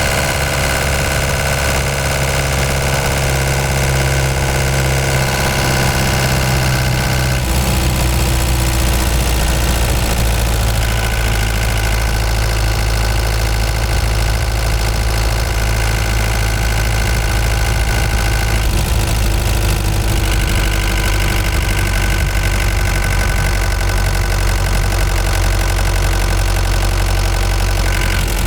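Ford Transit Mk5 van engine running steadily while driving at low revs, its note shifting about a third of the way in and again about two-thirds in.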